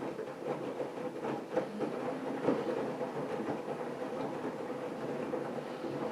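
AEG Lavamat front-loading washing machine running a wash: a steady motor hum with irregular clicks and knocks as the drum turns.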